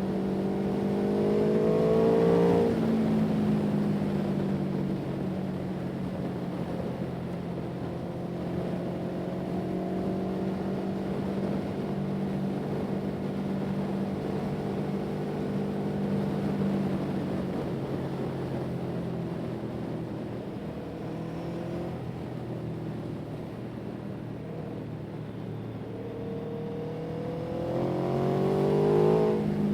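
Engines running steadily, with a vehicle passing close about two seconds in, its pitch rising then dropping as it goes by. Another comes up near the end, its pitch and loudness climbing.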